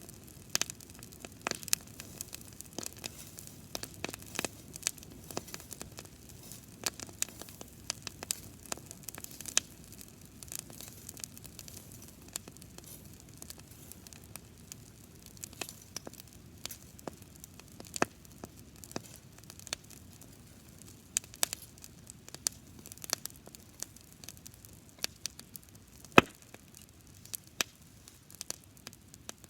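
Campfire of dried grass burning, with irregular sharp crackles and pops over a soft hiss; one pop stands out loudest near the end.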